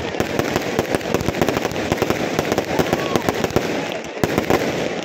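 Fireworks display with aerial shells and ground-launched fireworks going off in rapid succession: a continuous barrage of bangs, pops and dense crackling, with no let-up.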